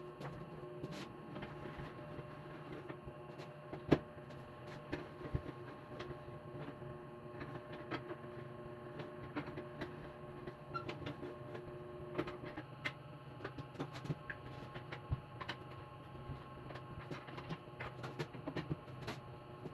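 Steady machine hum with several held tones, under scattered light clicks and knocks; the sharpest knock comes about four seconds in.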